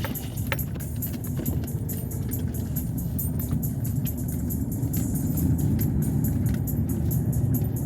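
Steady low road and engine rumble of a moving car, with a faint rapid high ticking over it.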